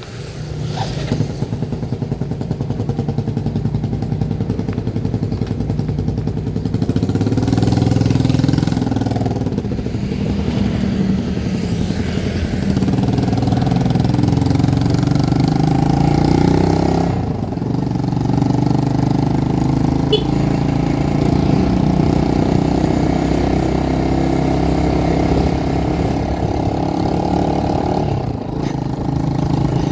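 A vehicle's engine running on the move, its pitch rising and falling with the throttle, with two brief drops, one near the middle and one near the end.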